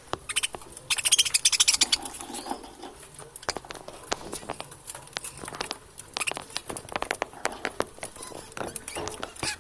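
Budgerigars chattering, with a steady stream of sharp clicks and short chirps. About a second in there is a loud, rapid run of clicks lasting about a second.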